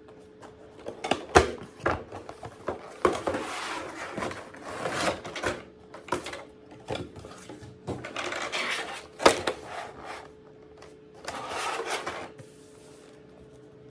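Hands handling a plastic toy and its packaging: sharp clicks and knocks mixed with stretches of rustling, over a faint steady hum.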